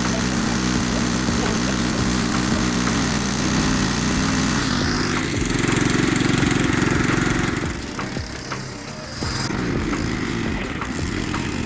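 A small engine running, its pitch shifting down about three seconds in and up again about five seconds in, then dropping away after about eight seconds into a rougher sound with scattered clicks.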